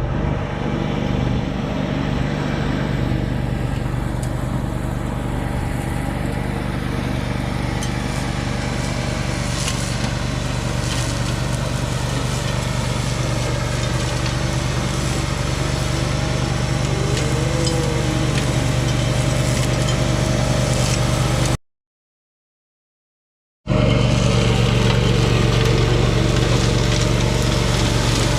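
Tractor engine running steadily at an even pitch. It cuts to silence for about two seconds near the end, then carries on.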